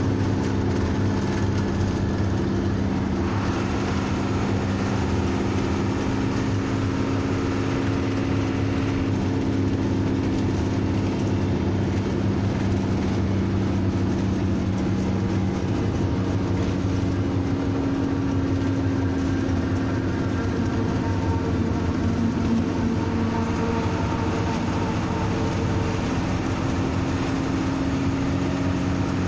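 A bus engine running steadily: a low, even drone whose pitch shifts only slightly.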